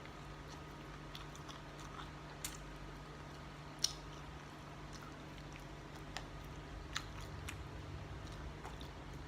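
A person chewing and eating, with scattered sharp clicks and small crunches over a steady low hum.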